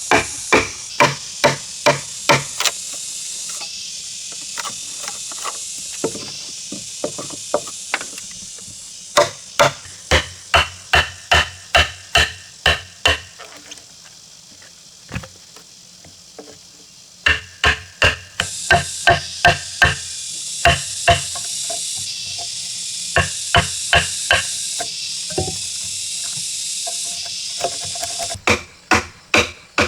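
A hand tool striking timber in runs of quick, ringing blows, about two a second, with short pauses between runs. Insects drone steadily behind.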